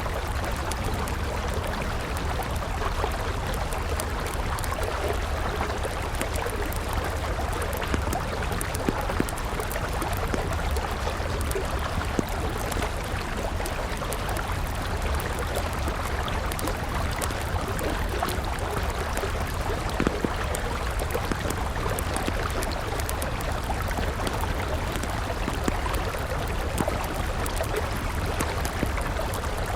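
A river flowing steadily, with a wood campfire crackling over it in scattered sharp pops.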